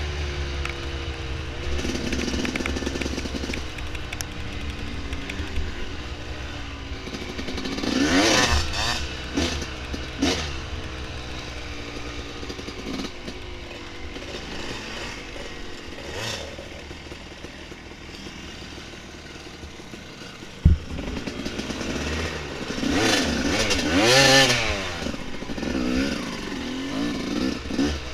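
Dirt bike engine running on a trail, its revs rising and falling with the throttle, climbing sharply twice. A single sharp knock about two-thirds of the way through.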